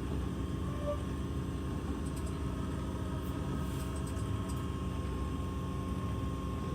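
Train running with a steady low rumble and a faint steady whine.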